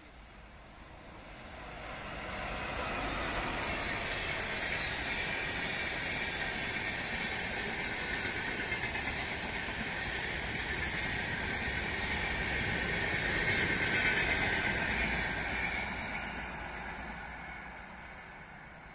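Electric-hauled Gatimaan Express passenger train passing at speed. The wheel-on-rail rumble and hiss of its coaches swell over the first few seconds, hold steady, peak a little after the middle, then fade near the end.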